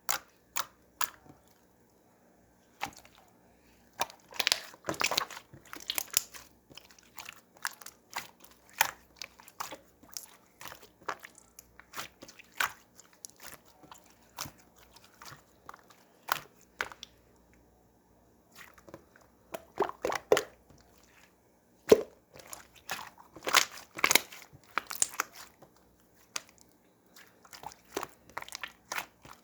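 Pink slime being squished and stretched by hand, making irregular sharp clicks and crackling pops, with denser bursts of crackling a few times.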